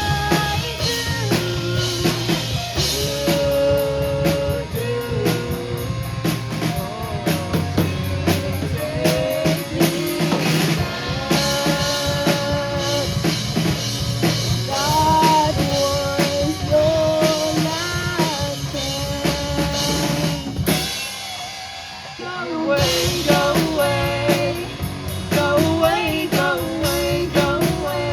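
Rock band playing with drum kit and a singing voice. About 21 seconds in the music briefly thins out and drops in level, then the full band comes back in.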